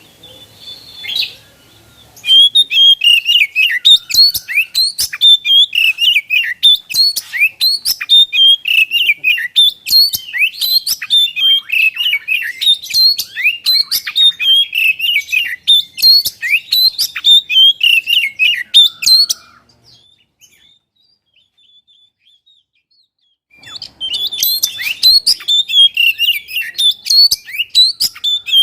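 Oriental magpie-robin (kacer) singing a fast, continuous, varied song of chirps and whistles. It stops after about two-thirds of the way through and starts again about four seconds later.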